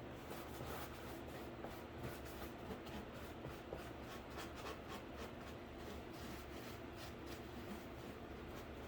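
Faint, irregular scratchy strokes of paint being brushed onto a cardboard PC case, over a low steady hum.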